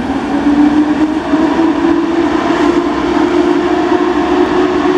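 Electric train running, with a steady rumble and a strong motor whine that rises slowly in pitch, as of a train gathering speed.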